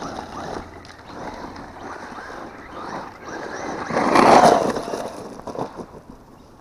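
Traxxas Ford Fiesta ST 1/10 RC rally car running on 6S: electric motor whine and tyre noise, with a swell about four seconds in as it comes close, then fading.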